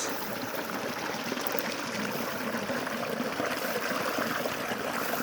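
Spring water running steadily, a continuous trickling flow.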